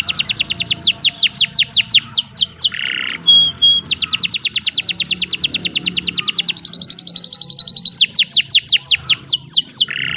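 Domestic canary singing long, rapid trills of repeated downward-sweeping notes, about ten a second. A short buzzy note breaks in about three seconds in and again at the end, and a held steady whistle sounds partway through.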